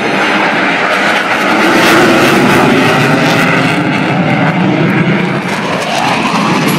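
Navy legacy formation flying past: an F4U Corsair piston fighter alongside A-4 Skyhawk, T-2 Buckeye and F/A-18 Super Hornet jets, their engines making a loud, steady mixed roar that peaks about two seconds in.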